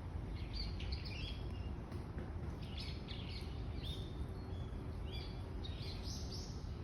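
Small birds chirping and twittering in short repeated phrases over a steady low background rumble.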